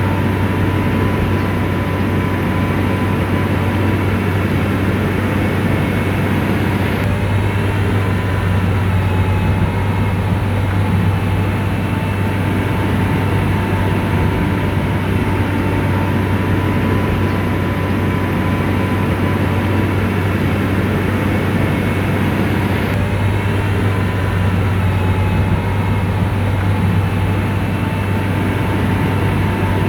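SDLG motor grader's diesel engine running steadily at working speed, a continuous deep drone with a faint steady whine above it.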